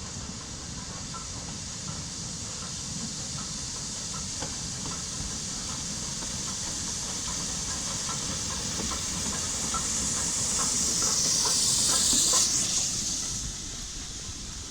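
BR Standard Class 2MT 2-6-0 steam locomotive arriving with escaping steam hissing steadily. The hiss grows louder, is loudest about twelve seconds in, then drops away sharply. Faint regular clicking runs beneath it.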